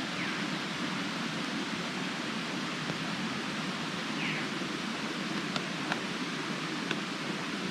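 Steady hiss of light rain falling on the forest after a thunderstorm downpour, with a few faint drips ticking late on.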